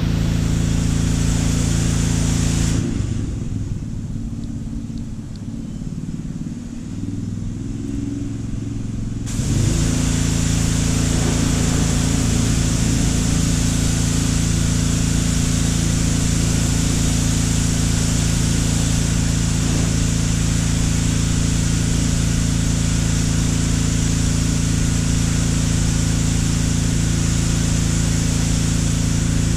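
Steady low mechanical hum over a constant hiss. For about six seconds, starting about three seconds in, the hiss drops out and the hum wavers unevenly before both return to their steady state.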